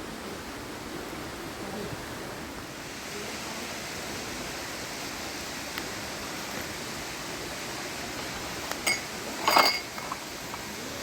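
Steady rush of a waterfall. Near the end come a few clinks of dishes, the loudest a short ringing clatter.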